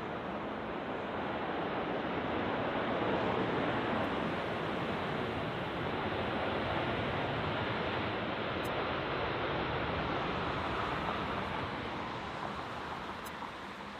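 Jet airliner's engines passing, a rushing noise that swells over the first few seconds and slowly fades away.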